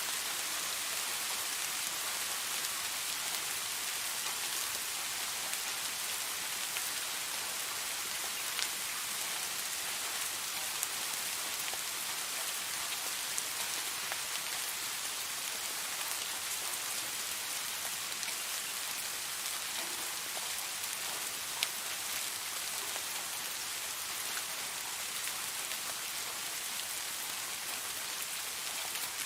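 Steady rain falling, an even hiss with an occasional louder single drop ticking through it.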